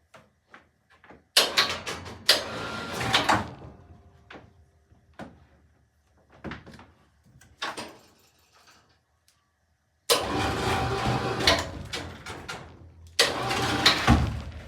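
Electric hoist motor running in two stretches while lifting an MDF slab: about two seconds from just over a second in, then about four seconds from around ten seconds in. Light clicks and knocks in between.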